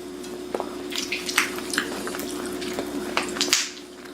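Knife and fork working through a roasted Cornish hen leg on a plate: scattered small clicks, scrapes and wet tearing sounds. A steady background hum cuts off near the end.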